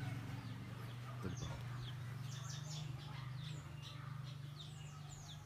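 Small birds chirping in quick, short, high notes that slide downward, many per second, over a steady low hum.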